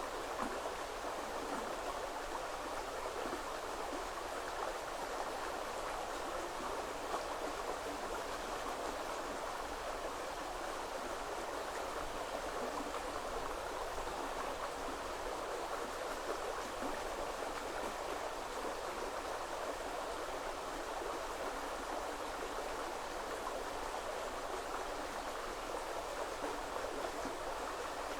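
Shallow woodland river flowing over stones: a steady, even rushing of water.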